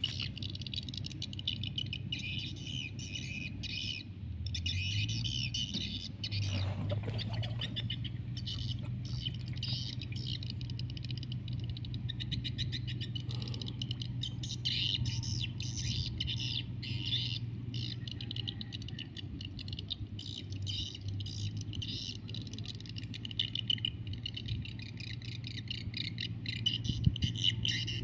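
Many small birds chirping busily and continuously. Under them runs a steady low hum that rises in pitch about five seconds in.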